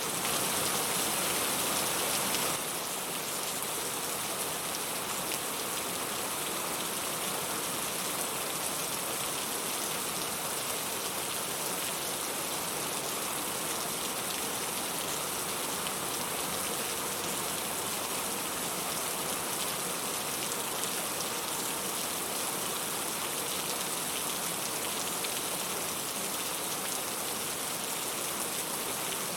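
Steady heavy rain, a dense even hiss of drops falling on a surface. It is a little louder for the first two or three seconds, then settles a step lower.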